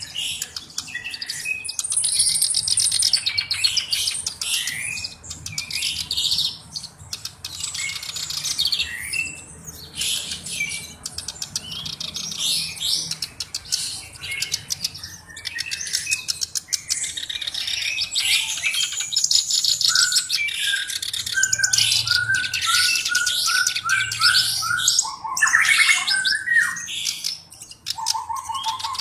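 Kerak basi alis hitam, a black-browed reed warbler, singing a loud, continuous, rapid chattering song of varied harsh and whistled notes. About three-quarters of the way through comes a fast run of repeated lower notes.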